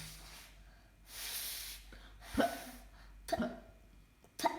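A child blowing a single puff of breath, as if blowing out a candle, followed by three brief vocal sounds.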